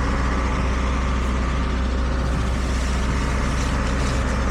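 A truck engine running steadily at idle, a constant low hum with no change in speed.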